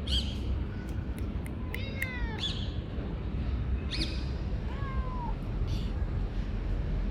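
Calico cat meowing repeatedly: about five short, arching meows spread over several seconds, over a steady low background rumble.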